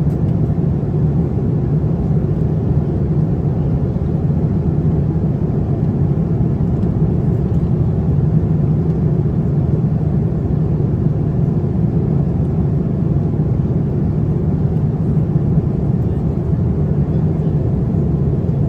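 Steady low rumble of a Boeing 787-9 airliner's cabin in cruise: airflow and engine noise heard from inside the economy cabin, even and unchanging.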